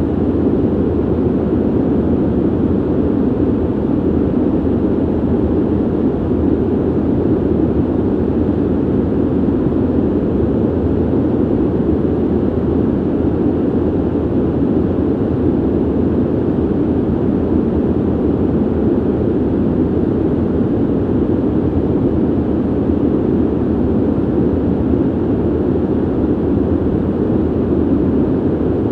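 Steady ventilation noise, a low, even rushing of air with no changes or clicks, strongest in the low-mid range and dull at the top.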